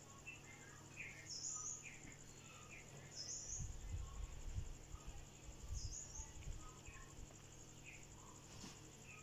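Faint birdsong: a short high chirp repeats every couple of seconds among other scattered chirps, with a low rumble through the middle.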